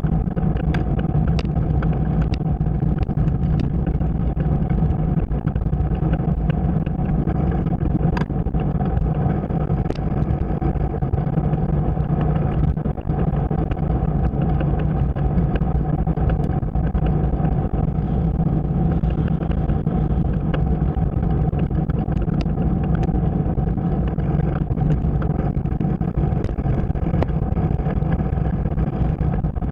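Motorcycle running steadily at a constant cruising speed, with a few faint ticks over the steady drone.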